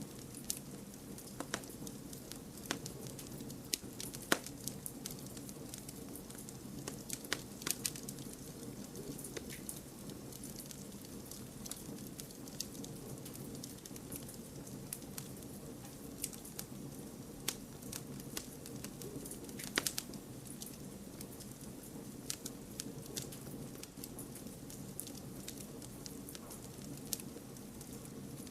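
Campfire burning and crackling: a steady low rumble of flames under irregular sharp pops and snaps. The loudest pops come about four seconds in and again near twenty seconds.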